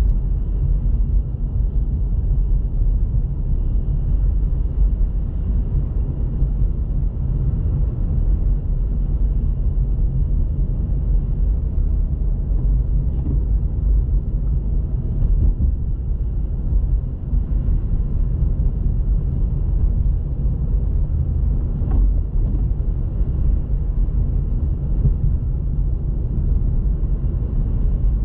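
Car driving along, a steady low rumble of engine and road noise, with a faint click about 22 seconds in.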